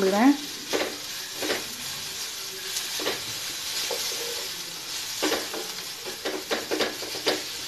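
Grated boiled raw banana, onions and green chillies sizzling in oil in a stainless steel kadai, tossed with a wooden spatula that scrapes and knocks against the pan now and then, with a run of quick strokes near the end.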